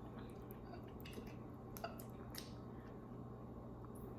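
Faint eating sounds over a steady low room hum: a few soft clicks of utensils and wet chewing or slurping.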